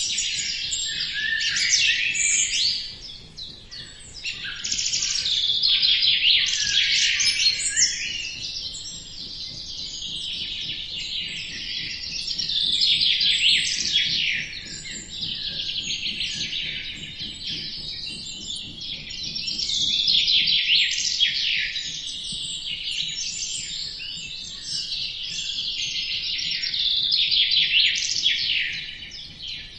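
Many small birds chirping and trilling together, a dense overlapping chorus of quick high calls that swells and eases every few seconds.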